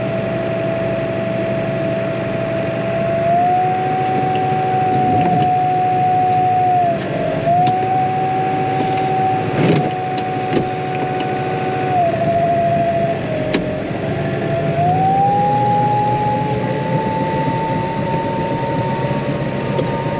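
Tractor running under load with a strong whine that steps up in pitch a few seconds in, dips twice, then climbs steadily over the last few seconds as the revs rise. A sharp knock comes about halfway through.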